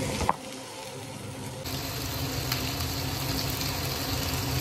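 Fish frying in oil in a pan, a steady sizzle, with a short knock about a third of a second in.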